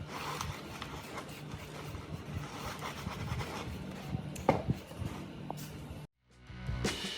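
Scraping and rubbing from hand work, with a few light clicks; it cuts off about six seconds in, and music begins near the end.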